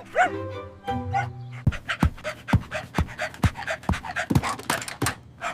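Cartoon dog panting and yipping over background music. From about a second and a half in, low thumps come about twice a second, mixed with sharp clicks.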